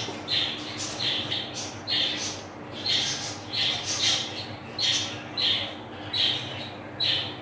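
A bird chirping over and over, short harsh calls about twice a second, over a faint steady hum.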